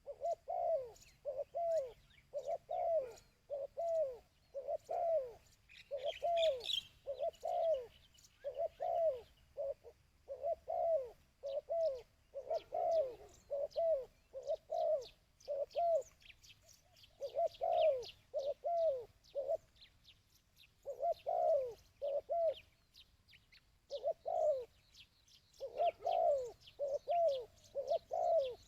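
A dove cooing in a long run of short, arched coos, about one or two a second with brief pauses, used as a call to lure wild doves. Fainter high chirps of small birds sound behind it.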